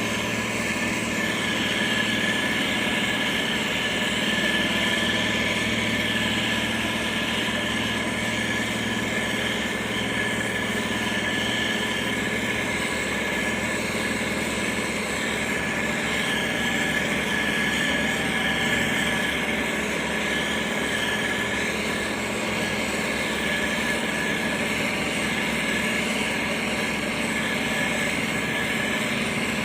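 Motor grader's diesel engine running steadily at a constant pitch and level.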